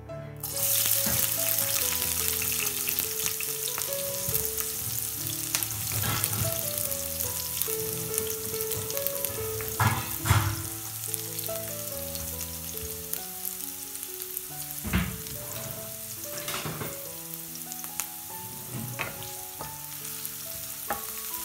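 Chopped onion, garlic and green chillies hit hot oil in a metal frying pan and start sizzling about half a second in, then keep frying steadily. A wooden spatula stirring them knocks and scrapes against the pan now and then.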